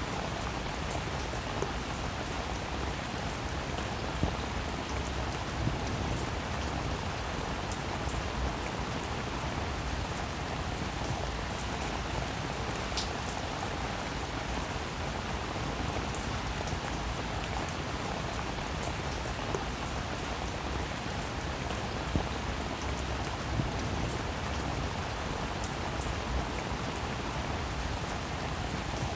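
Steady rain falling on a surface, an even hiss filled with many small drop ticks and a few louder single drops.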